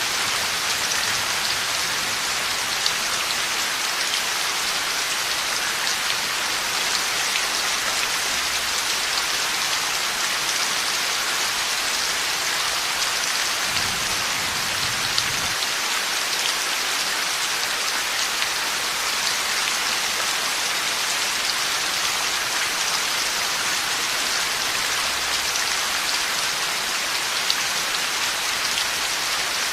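Heavy rain falling steadily, a dense even hiss of drops on hard surfaces with scattered sharper drop hits.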